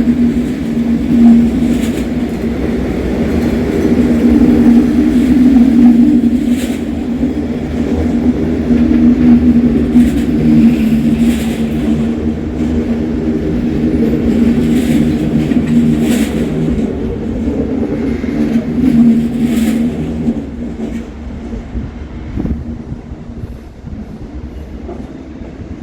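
A train at a station platform, running with a steady electric hum over a low rumble and occasional sharp clacks of wheels over rail joints. The sound dies away over the last few seconds as the train moves off.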